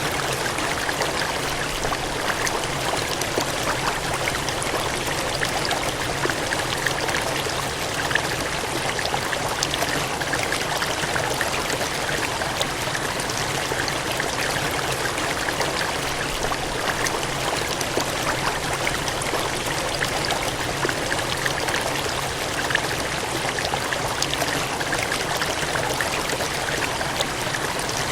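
Water gushing and splashing in a steady, unbroken rush, like a stream or cascade, with small splashes flickering through it.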